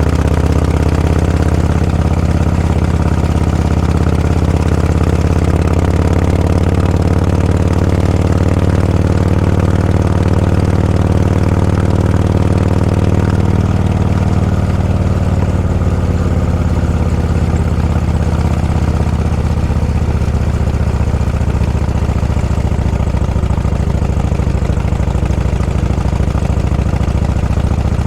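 Vehicle engine running steadily with a deep, even drone while travelling at low speed, its pitch easing slightly about halfway through.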